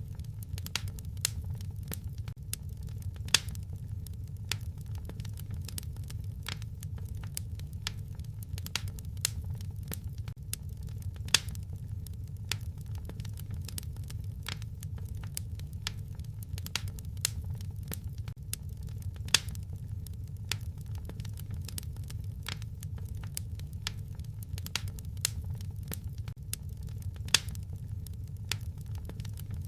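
Wood fire crackling in a fireplace: frequent sharp pops and snaps over a steady low rumble of burning, with a louder pop about every eight seconds.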